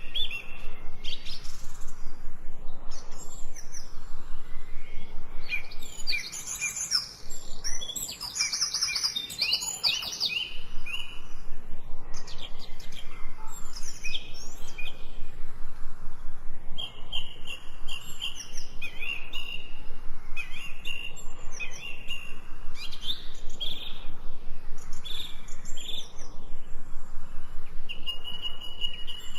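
Several birds chirping and singing at once, a fast, even run of short chirps under other overlapping calls and trills.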